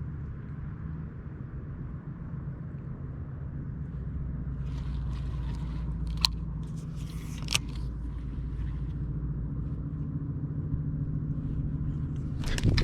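Steady low mechanical hum like a distant engine, swelling slightly partway through, with two sharp clicks about six and seven and a half seconds in.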